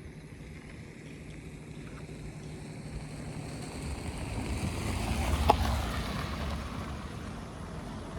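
A vehicle passing by: a rumble of engine and tyre noise swells to a peak about halfway through, with a sharp click or rattle at its loudest, then fades away.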